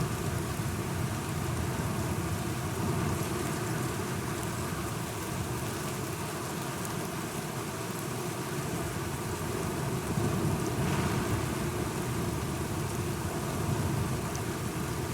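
Steady rain falling, with a low rumble underneath that swells slightly about ten seconds in.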